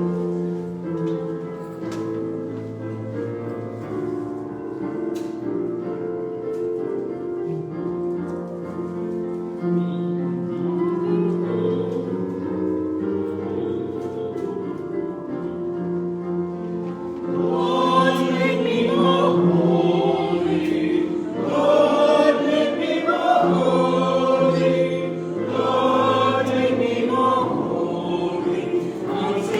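Church music: steady held chords on an instrument, then a choir comes in singing a little over halfway through, and the music grows louder.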